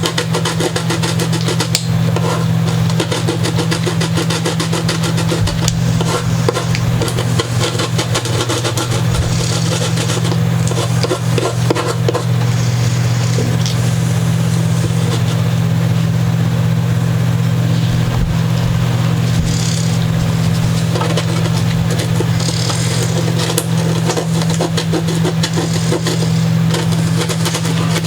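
Heavy-grit sandpaper being rubbed by hand in short spells of scratching, over a loud steady low hum.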